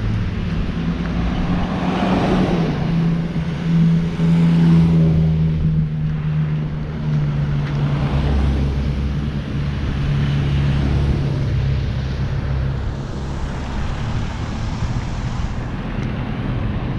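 City street traffic: a vehicle engine running with a steady low hum that slowly drops in pitch, and cars driving past, with swells about two, four and eight seconds in.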